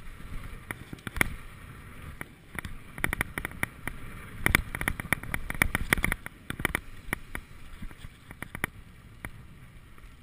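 Mountain bike clattering over a rough trail: irregular sharp clicks and rattles from the bike over a steady low rumble, thickest in the middle.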